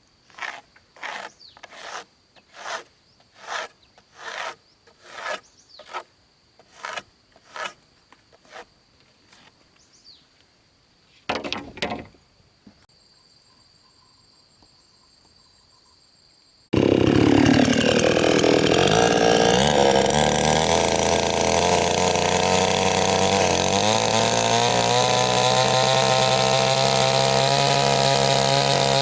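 About a dozen even strokes of a saw cutting wood, at just over one a second. After a short pause, a chainsaw starts up abruptly, loud, and runs on steadily at high revs.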